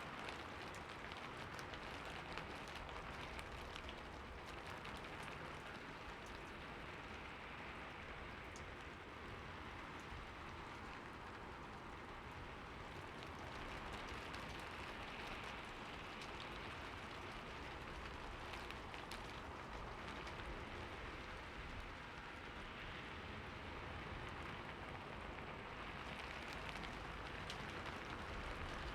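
Steady rain falling, with scattered individual drops ticking against a continuous patter.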